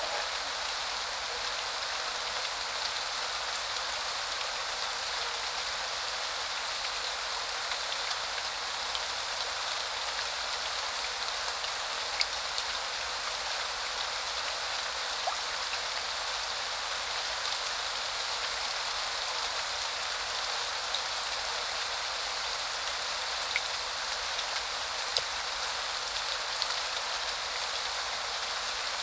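Steady spring rain falling, an even hiss with a few louder individual drops striking now and then.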